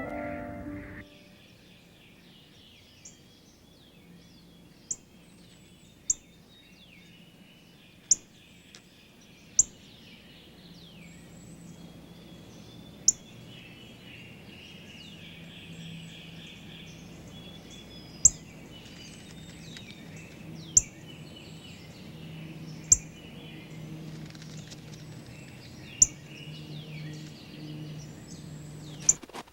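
Small birds chirping and calling together. Sharp clicks stand out above the chirps every few seconds. Organ music cuts off about a second in.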